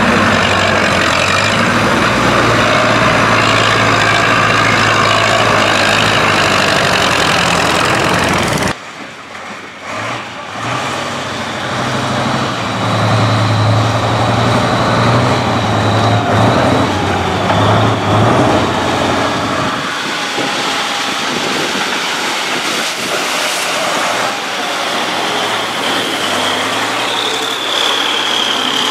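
Tractor engine running loudly. The sound drops abruptly about nine seconds in and builds back up to a steady engine sound.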